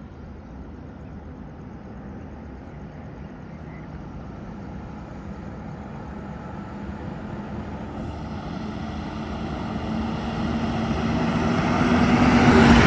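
A heavy Tata diesel truck approaching, its engine drone and tyre noise growing steadily louder to a peak near the end as it comes close.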